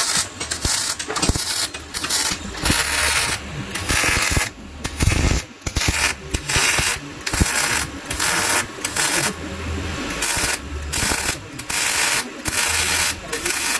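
MIG welder laying short tack welds on car body steel: a harsh hiss that starts and stops in irregular bursts about every second.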